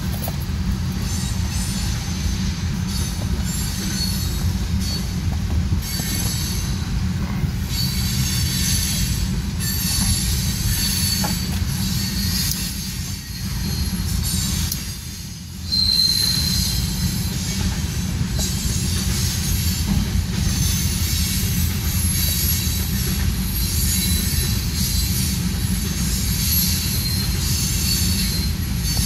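A freight train of tank cars and covered hopper cars rolling past, with a steady low rumble of wheels on rail and high, flickering metallic squeal from the wheels. It eases off briefly about halfway through, then comes back with a short high squeal.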